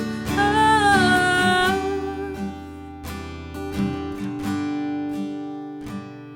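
Acoustic guitar strummed in a steady rhythm, an instrumental break in a worship song. Near the start a held wordless sung note bends in pitch and then fades.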